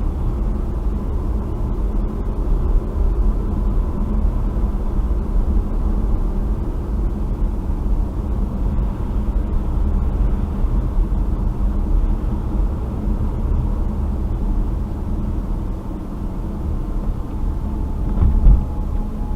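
Car driving, heard from inside the cabin: a steady low rumble of engine and tyres, with a single thump near the end.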